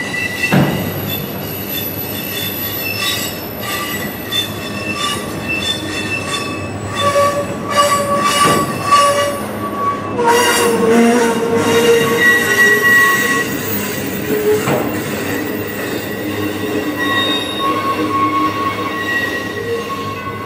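Freight train of autorack cars rolling past: steady wheel-and-rail rumble with high wheel squeals that come and go, and a few sharp clunks from the cars.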